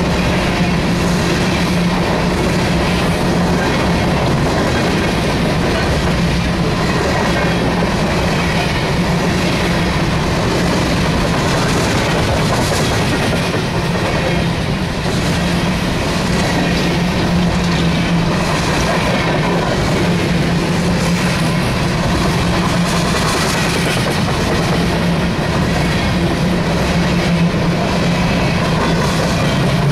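Empty open-top hopper cars of a freight train rolling past close by: a steady loud rumble of steel wheels on rail with clacking and rattling, under a constant hum.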